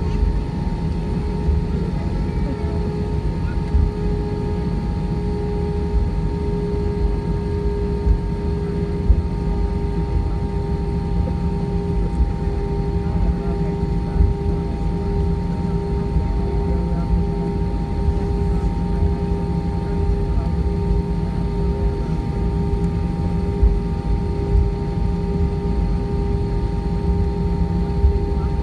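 Steady cabin noise inside an Airbus A320 airliner on the ground after landing: a low rumble under a steady droning hum with a couple of fixed tones and a few small knocks.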